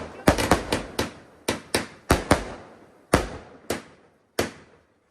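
Fireworks going off: a quick run of sharp bangs, about a dozen, close together at first and coming farther apart toward the end.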